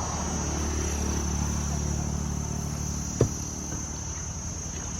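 Insects, crickets or cicadas, trilling in a steady high-pitched drone over a low steady hum. About three seconds in there is one sharp knock.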